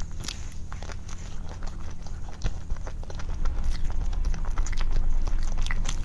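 Close-miked eating of a chocolate-coated cream cake: biting and chewing, heard as scattered crisp clicks and crackles of the chocolate shell.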